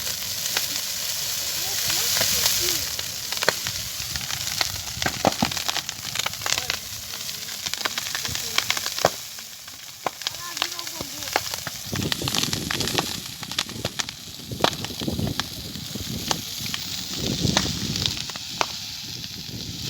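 Wood bonfire burning, with a steady hiss and frequent sharp, irregular crackles and pops.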